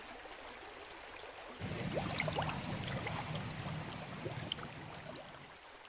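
Quiet swamp water ambience: a faint hiss, then from about a second and a half in a low rumble with scattered short chirps and drips over it, fading out near the end.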